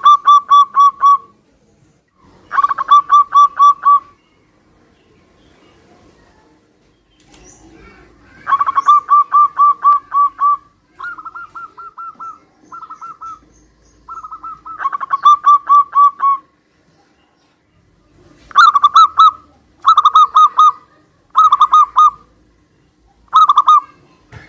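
Zebra doves cooing, calling back and forth: loud phrases of quick, rapid-fire notes, each a second or two long, repeated with short pauses. Near the end the phrases become shorter and more clipped.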